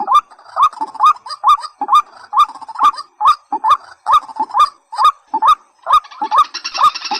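A rail repeats a fast series of short calls, about two a second, each note hooking upward. About six and a half seconds in, a dense high chatter joins it.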